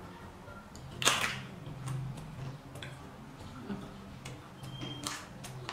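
A crisp bite into a raw vegetable about a second in, followed by close-miked chewing with scattered wet clicks and crunches.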